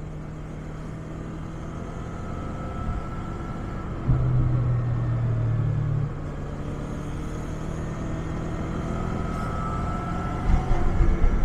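Yamaha MT-25's 249 cc parallel-twin engine running through its stock muffler with a steady low exhaust note. About four seconds in the note jumps louder for about two seconds, then settles back. Uneven low thumps come in near the end.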